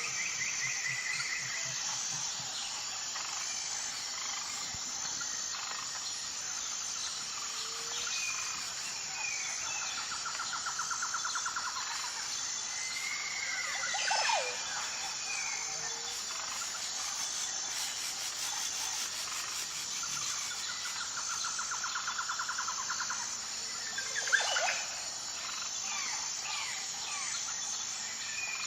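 Wild birds singing and calling over a steady, high insect chorus that pulses evenly. Two rapid trills come about ten and twenty seconds in, and two sharp downward-sweeping calls stand out at about fourteen and twenty-four seconds, the second the loudest.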